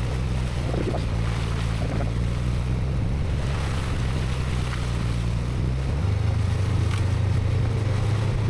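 Honda CB500X's parallel-twin engine running while riding, under heavy wind noise on the microphone; the engine note gets louder about six seconds in.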